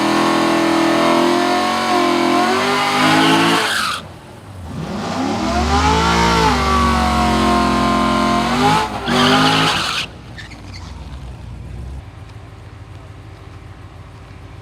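A car engine running at high revs until its sound drops away about four seconds in. A second burst of engine sound rises and falls in pitch and cuts off suddenly about ten seconds in, leaving a lower, steady background.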